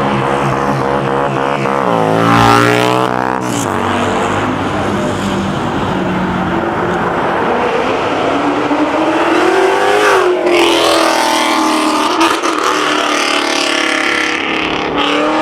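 Car engines revving and accelerating away, over steady engine noise. There is a sharp rev about two seconds in, and a longer rise in pitch that drops suddenly around ten seconds in, like a gear change.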